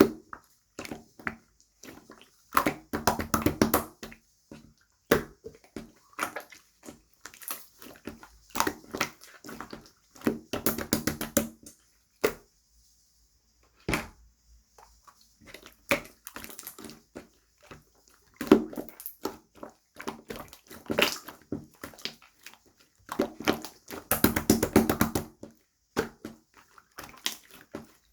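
Hands squeezing and kneading slime, making bursts of sticky clicking and popping. There is a pause of about a second and a half near the middle.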